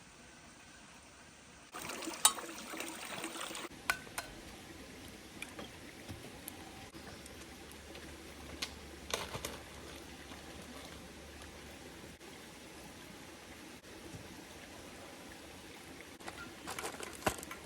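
Liquid trickling and pouring while coffee is made, with scattered light clicks and clinks. A louder noisy rush comes about two seconds in, and a quick run of clicks near the end.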